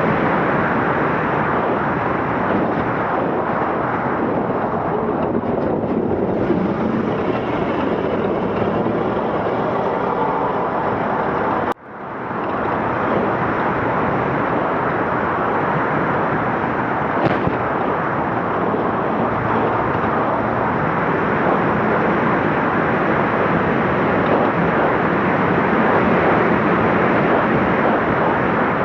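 Scania Dakar rally truck running hard, a loud, dense, steady mix of engine and rolling noise. About twelve seconds in, a sharp knock is followed by the sound briefly dropping away and then swelling back.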